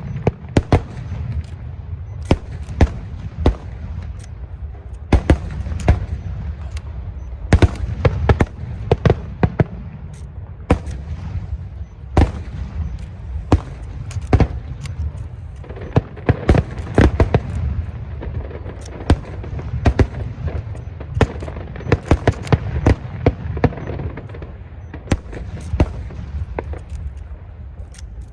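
Fireworks going off in a continuous barrage: many sharp bangs and booms, irregular and several a second, over a constant low rumble.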